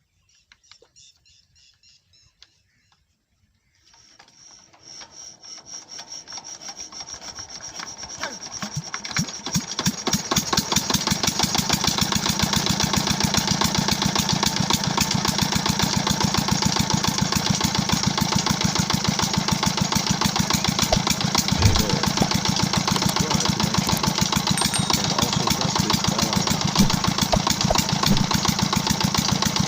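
25 HP Peter (Petter-type) diesel engine of a tubewell starting up: a rhythmic beat begins about four seconds in, quickens and grows louder over several seconds as the engine picks up speed, then settles into a steady, even running beat.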